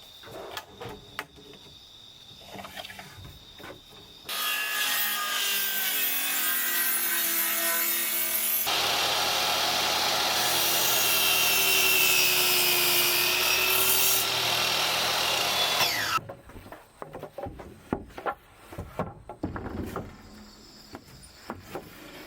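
Power saw cutting wood: after a few light knocks it starts about four seconds in, bites harder with its pitch dipping under load, then stops suddenly, followed by knocks of wood being handled.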